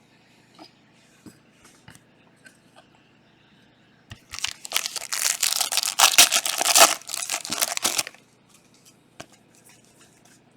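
A Panini Prizm trading card pack's wrapper being torn open and crinkled for about four seconds in the middle. Before and after it there are faint clicks of cards being handled.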